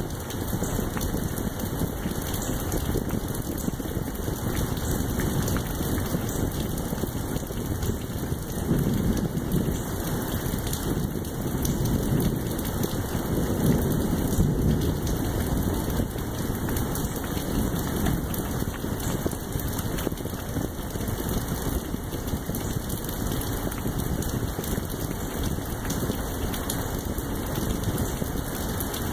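Steady rain falling, with many small drop ticks close by. A low rumble swells a few times in the middle.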